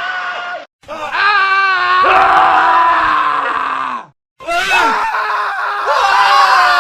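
Several men screaming one after another, spliced together: a short scream, a wavering scream with a shaky, trembling pitch, and a long held scream that falls away. Two abrupt breaks of silence, about a second in and about four seconds in, divide them.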